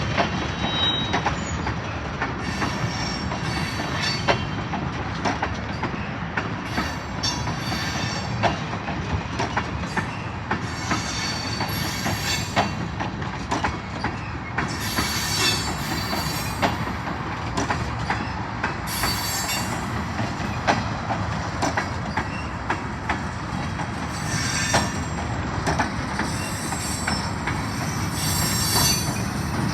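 Train cars rolling slowly past with steady rumbling, their wheels clacking irregularly over rail joints. The wheels squeal high-pitched in several spells.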